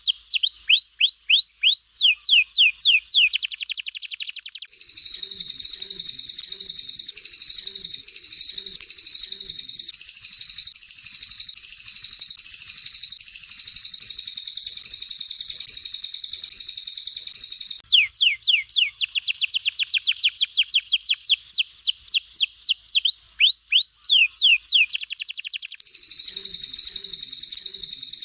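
Recorded songs of a canary and a cililin alternating: a run of rapid downward-sweeping whistled notes, then a dense, continuous high warbling song from about five seconds in, the sweeping notes again about eighteen seconds in, and the warbling song back near the end.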